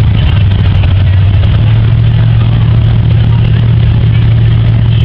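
An engine running steadily close by at an unchanging low pitch. It came on suddenly just before this point.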